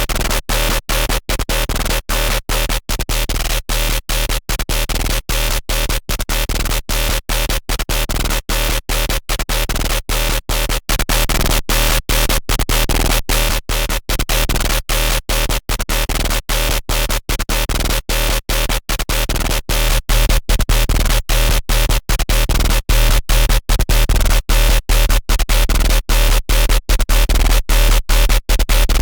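Harsh, buzzy electronic synth sound from a Serum wavetable patch, played as rapid, evenly repeated short notes, several a second, over a deep steady bass. It steps up in loudness about twenty seconds in.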